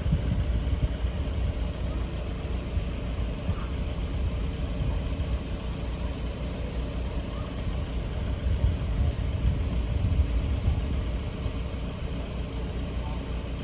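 Low, steady rumble of road vehicle engines running, with no distinct events.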